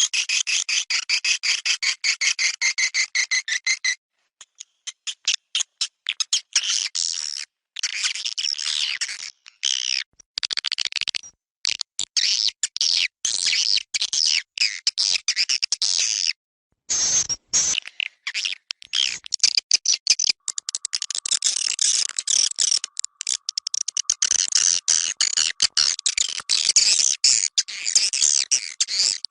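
Recorded swiftlet calls: dense, rapid chirping and twittering, broken now and then by sudden short silences where the recording is cut.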